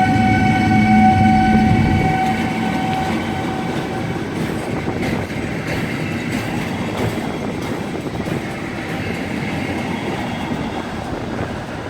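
DB Class 189 electric locomotive pulling out with a train. A steady whine of several tones fades out after about three seconds, leaving a loud rumble of wheels on rails with scattered clicks.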